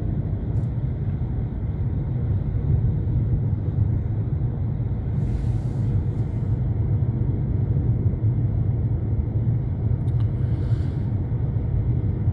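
Steady low rumble of a car's engine and tyres, heard from inside the cabin while driving. Two brief hisses break in, one about five seconds in and one near the end.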